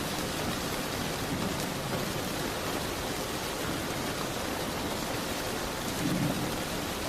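Steady heavy rain falling, an even hiss with a brief low rumbling swell about six seconds in.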